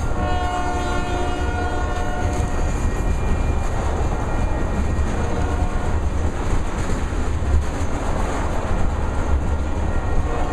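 Freight train rolling along the rails with a steady low rumble and wheel clatter from the tank cars. A locomotive's multi-tone air horn sounds for about two and a half seconds at the start, comes back faintly around the middle, and starts again at the end.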